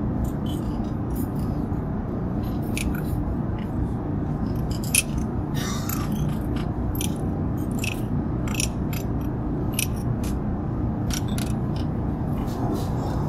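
Steady low drone of an Airbus A350-900 cabin in flight, with light clicks and clinks of utensils on breakfast dishes scattered throughout.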